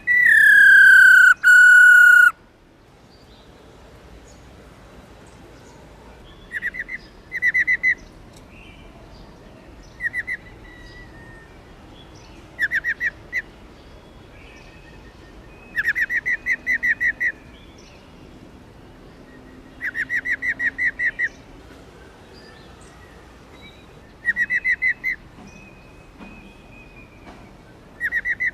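Female black-throated laughingthrush (Garrulax chinensis) giving its 'ro ro' call: short bursts of rapid rattling trills, repeated every few seconds, a call used to excite male birds. It opens with a loud whistle falling in pitch.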